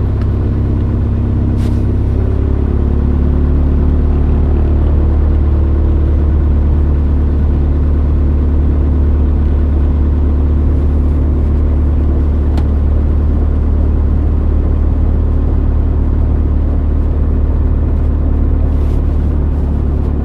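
Cessna 152's four-cylinder Lycoming piston engine running steadily, heard inside the cockpit, its pitch shifting slightly and getting a little louder about two to three seconds in. A few faint clicks come through it.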